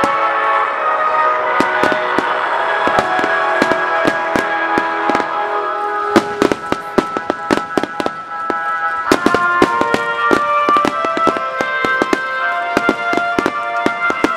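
Fireworks bursting and crackling in quick, irregular succession, with many sharp reports that grow denser and louder about halfway through, over music with sustained notes.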